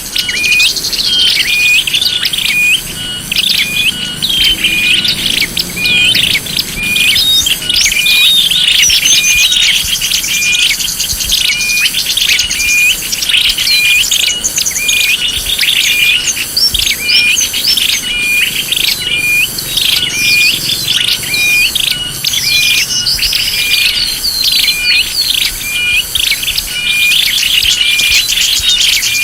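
Chorus of small songbirds chirping and twittering in rapid, overlapping short notes with no let-up: a bird-lure recording (suara pikat) made to draw small birds in.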